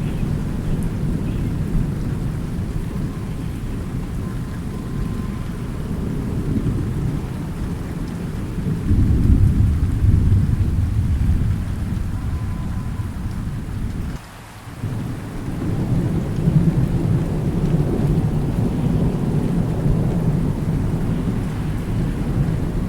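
Thunderstorm: steady rain with continuous low rolling thunder, swelling louder about nine seconds in. The sound drops away sharply for about half a second around the middle, then returns.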